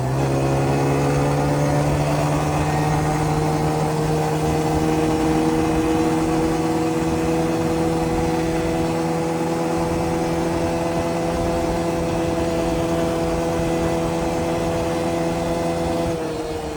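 Yamaha Grizzly 125 ATV's small single-cylinder four-stroke engine running at a steady held throttle, its pitch creeping slightly higher, then dropping as the throttle eases off near the end.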